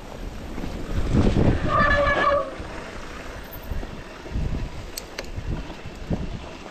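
Mountain bike riding along a trail: wind buffeting the microphone over a rumble of tyres and bike noise, louder about a second in. A brief steady high squeal sounds about two seconds in, and a sharp click near the end.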